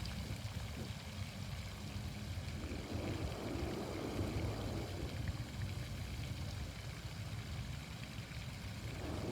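Outdoor fountain's water splashing steadily, with a low rumble underneath that swells a little for a few seconds in the middle.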